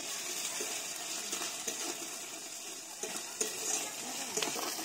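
Grated onion with ginger and garlic paste sizzling steadily in hot oil in a kadai while being stirred, with a few light clicks of the spatula against the pan.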